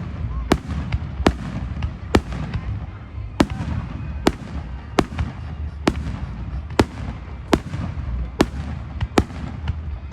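Fireworks going off: a string of sharp bangs, about one every three-quarters of a second, over a steady low rumble of more distant blasts.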